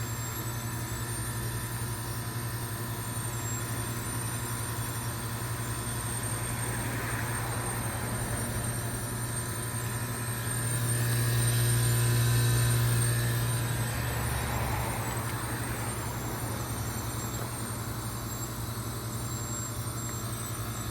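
2005 York Olympian (Latitude 10) heat pump outdoor unit running through its defrost cycle: a steady low compressor hum over a faint hiss, swelling louder for a few seconds around the middle.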